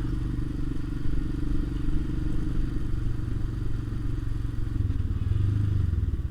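Royal Enfield Himalayan's single-cylinder engine running steadily under way, its note swelling for a moment near the end.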